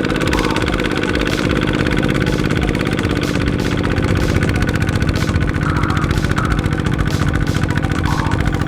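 Small two-wheel farm tractor's engine running steadily with an even, rapid pulse.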